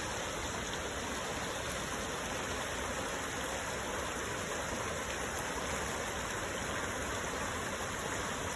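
Steady rush of flowing stream water just downstream of a waterfall.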